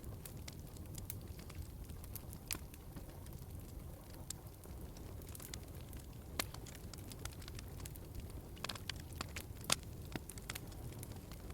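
Wood fire crackling in a fireplace: irregular sharp pops and snaps over a steady low rumble, with two louder pops partway through and near the end.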